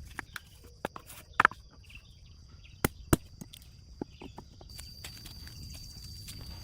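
A few sharp knocks at irregular intervals, the loudest about a second and a half in and a close pair about three seconds in, over a faint, steady, high-pitched whine.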